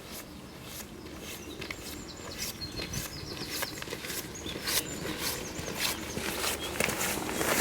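Irregular crisp rustling and crackling footsteps, growing louder toward the end, with small birds chirping in the background.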